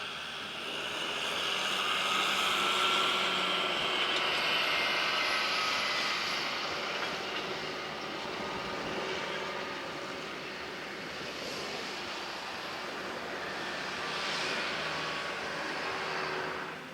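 Tractor engine running, growing louder about two to five seconds in, easing off, and swelling again near the end.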